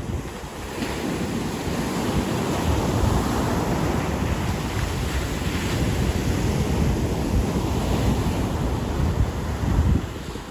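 Ocean surf breaking and washing up the shore in a steady roar, with wind buffeting the microphone in low, gusty rumbles.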